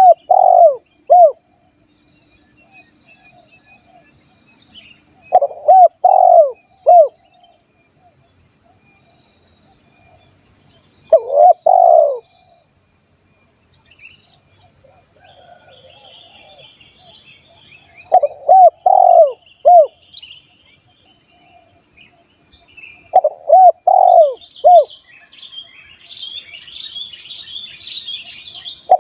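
Spotted dove (tekukur) cooing: phrases of three or four low, curved coo notes, repeated five times about every six seconds. A steady high insect drone runs underneath, and small birds chirp near the end.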